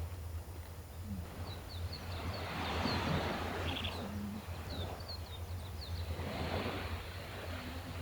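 Gentle sea waves washing onto the shore, swelling twice about three and a half seconds apart, while small birds chirp in quick, short, high notes throughout. A steady low hum runs underneath.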